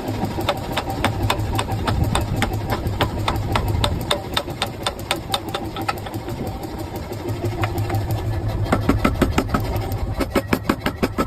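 Power hammer pounding a hot steel axe blank, about five quick, even blows a second over the steady hum of its motor, drawing out the axe body. The blows come faster near the end.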